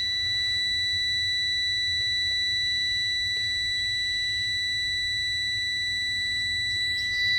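Truck's dashboard warning buzzer sounding with the ignition on and the engine not yet running: one unbroken high-pitched tone over a steady low hum.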